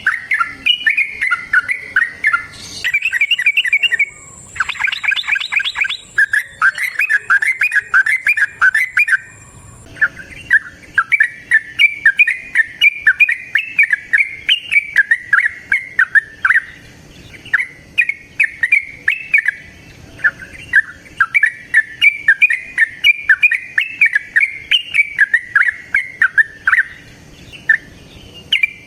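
Yellow-vented bulbul (trucukan) singing its long, rapid chattering song, a fast run of bubbly notes in phrases broken by short pauses. A high, thin, steady tone runs alongside for the first third.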